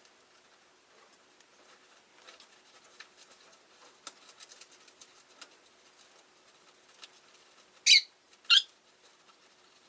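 Rosy-faced lovebirds in their cage: faint clicking and pattering, then two sharp, high-pitched calls in quick succession near the end.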